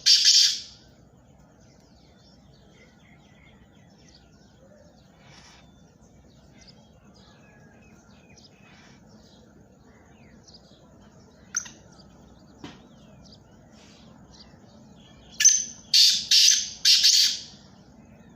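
Black francolin calling: the tail of one call phrase at the very start, a single short note about midway, and near the end a loud phrase of about five harsh notes in quick succession. Faint scattered chirps lie in the quiet stretches between.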